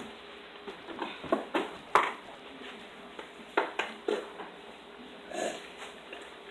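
Scattered light knocks and clicks, about eight of them in two clusters, from things being handled on a kitchen counter while coffee is being made.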